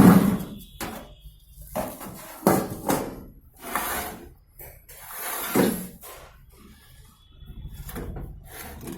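Irregular knocks, scrapes and rattles of a microwave oven's metal casing and parts being handled while it is taken apart, with a sharp knock at the start.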